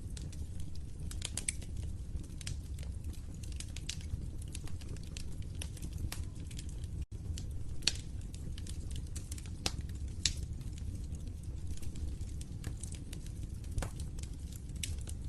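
Wood fire in a fireplace crackling, with irregular sharp pops and snaps over a steady low rumble of the flames. The sound drops out for an instant about seven seconds in.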